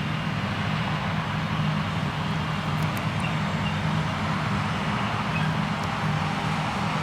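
Krone Big X 1100 self-propelled forage harvester working under full load as it harvests triticale: a steady, loud engine drone beneath a dense rushing noise.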